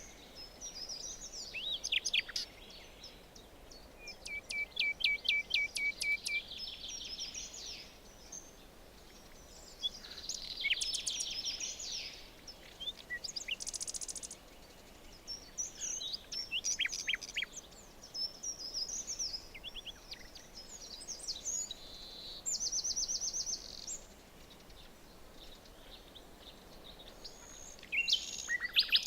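Several songbirds singing and calling in a forest, one after another: quick trills of repeated notes, chirps and short whistled phrases, over a faint steady hiss.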